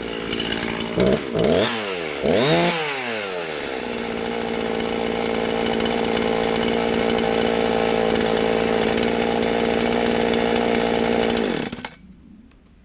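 Two-stroke chainsaw revved up and down a few times, then running steadily and staying running. It is shut off about a second before the end.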